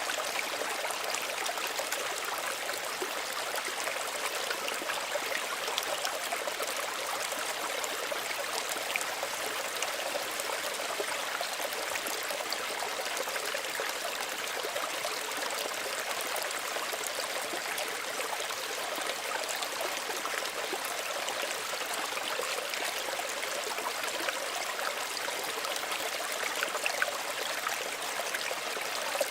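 Small stream running steadily over stones, a continuous gentle trickle and babble of water with many small splashes.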